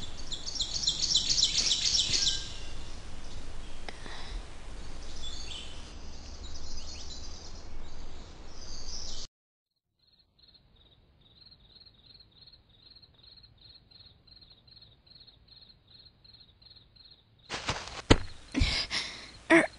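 Forest ambience: birds chirping over a low steady background noise, which cuts off suddenly about nine seconds in. Faint, evenly repeating insect-like chirps follow, about two a second. Near the end come a few sharp, louder sounds.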